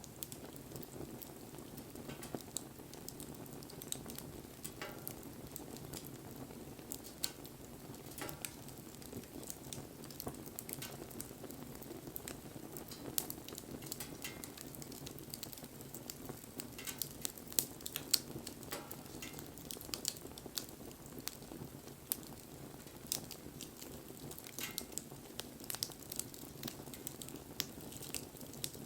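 Wood fire burning with a steady low rush of flame and frequent sharp crackles and pops throughout.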